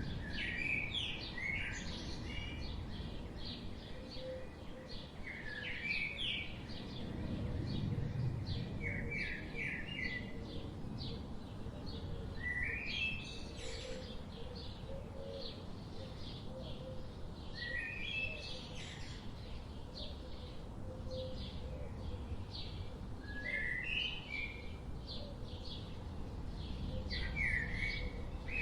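Several birds singing in a forest. One bird repeats a short phrase of quick rising notes about every five seconds, with fainter chirps from others between its phrases. A steady low rumble runs underneath.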